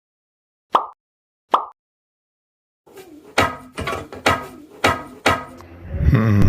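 Two short pops, then a run of about six sharp knocks with a ringing tone, and music starting near the end, all over dead silence in between: edited-in sound effects.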